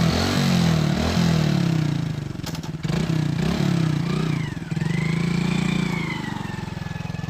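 Motorcycle engine revved in quick repeated throttle blips, then held briefly at higher revs before settling lower.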